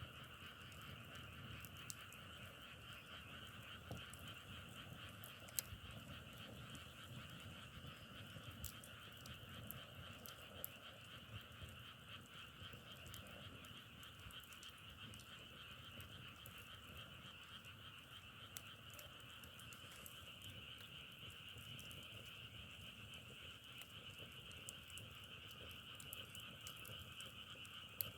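A faint, steady chorus of many frogs calling together without a break, with scattered faint clicks over it.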